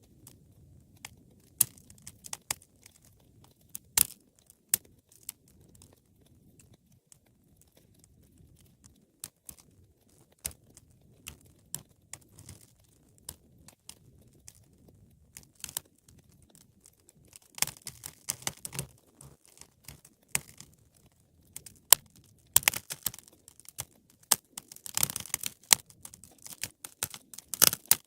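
Wood fire crackling, with irregular sharp pops and snaps over a faint low rumble of the flames; the crackles grow denser in the last third.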